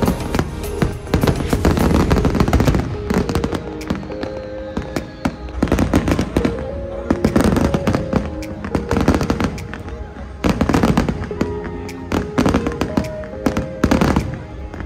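Fireworks going off in dense volleys of bangs and crackle that come in waves with short lulls between, over steady background music.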